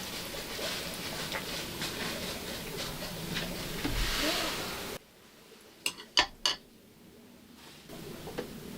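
Tableware clinking and clattering as someone eats a meal. About five seconds in, the background drops away and three or four sharp clinks follow close together.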